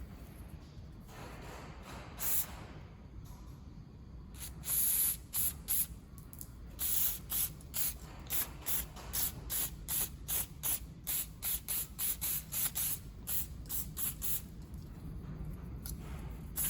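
Aerosol brake cleaner sprayed in short hissing bursts, a few at first and then a long run of about two a second, blasting gunk out of a chainsaw's oil line.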